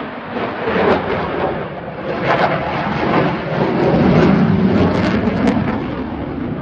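Aircraft passing during an air-show flypast: a loud, rushing engine noise that swells to its loudest about four seconds in, then eases off.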